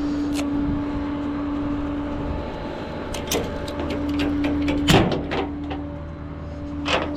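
Rollback tow truck's hydraulic bed in motion: a steady pump whine, broken off briefly partway through, with several metal clanks, the loudest about five seconds in.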